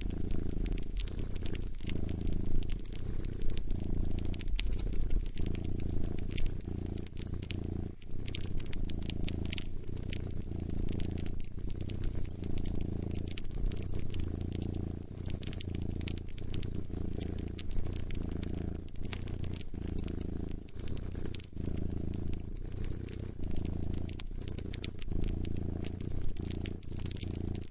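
A cat purring steadily and close, with a wood fire crackling, a scatter of sharp pops and snaps over it.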